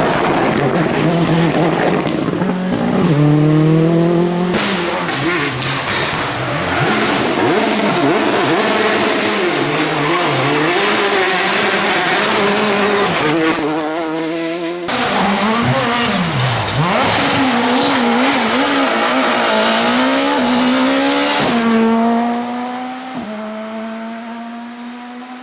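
Rally cars at full stage speed: engines revving hard, climbing and dropping in pitch through gear changes and throttle lifts, with tyre squeal. The sound changes abruptly between cars a couple of times, and near the end one engine holds a steady note while fading.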